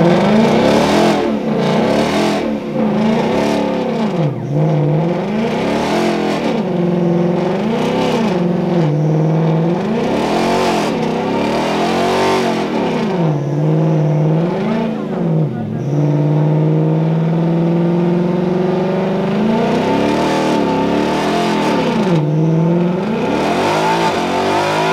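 Ford Mustang's engine revving hard during a burnout, the revs swinging up and down every second or two, with one longer held rev about two-thirds of the way through. Under it there is a steady hiss from the spinning rear tyres.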